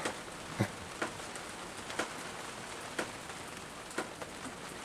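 Steady rain falling, an even hiss with a sharp single tap about once a second.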